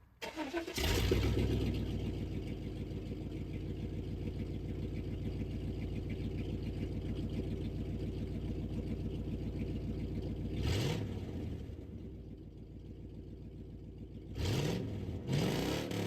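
Straight-piped V8 of a 1990s Chevy Tahoe, its muffler cut out, starting up about a second in and idling with an open exhaust note. The engine is revved briefly near the eleventh second and twice more near the end.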